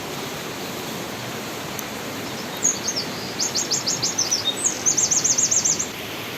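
Steady rush of falling water at a spring-fed stream. A small songbird sings over it from about two and a half seconds in: a few high chirps, a quick run of notes, then a fast trill of about ten repeated notes that stops shortly before the end.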